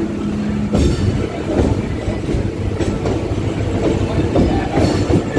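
Passenger train running through a station, heard from on board: a steady rumble of wheels on rail, with several sharp clacks as the wheels pass over joints in the track.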